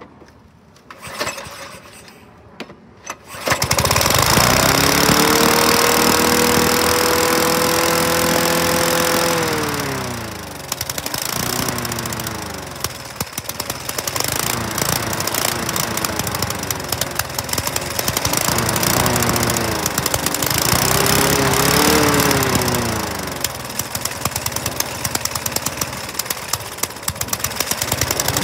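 Toro Super Recycler walk-behind mower engine being pull-started: a few rattling pulls, then it catches and runs at a high, steady speed. About ten seconds in the revs drop, and it keeps surging up and down unevenly: the governor air vane is sticking and not springing back, so the throttle goes to full open on full choke.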